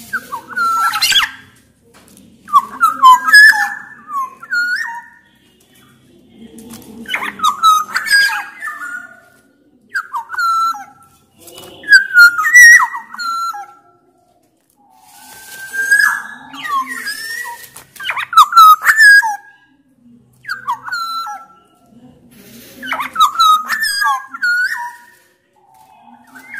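Black-naped oriole singing: loud, fluty whistled phrases with quick pitch slides, mixed with sharp, scratchy high notes, in short bouts repeated every couple of seconds with brief pauses between.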